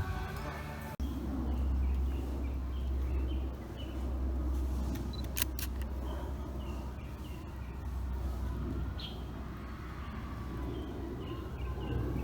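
Outdoor ambience: small birds chirping over a steady low rumble, with two brief clicks near the middle.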